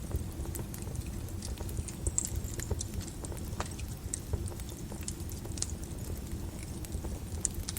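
Wood fire crackling in a fireplace: scattered, irregular sharp pops and snaps over a low, steady rumble of the flames.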